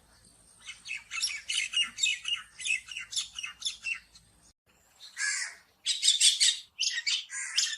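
Common myna calling: a fast run of scratchy chattering and squawking notes in two bouts, with a short break about halfway through.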